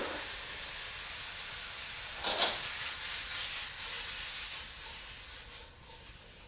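Meat and vegetables (peas, carrots, bamboo shoots) sizzling in a hot pan, with a brief stirring scrape about two and a half seconds in. The sizzle dies down near the end.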